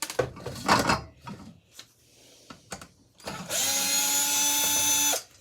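Handheld power tool motor running in a steady whine for about a second and a half near the end, then cutting off sharply. Before it come a few clattering clicks of metal parts being handled.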